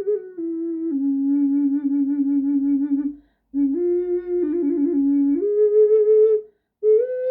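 An ocarina plays a slow melody of held low notes that step up and down, some wavering slightly. The playing breaks twice for short breaths.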